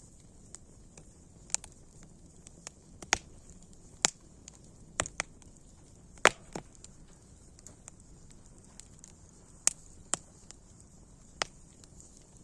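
Burning wood fire crackling: irregular sharp pops and snaps over a faint steady hiss, the loudest pop a little past halfway.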